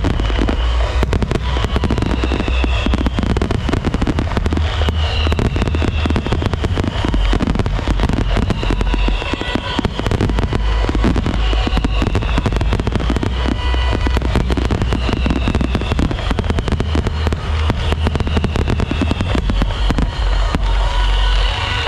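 Fireworks display: a continuous barrage of rapid bangs and crackling over a heavy low rumble, with a high sweeping tone recurring about every second and a half.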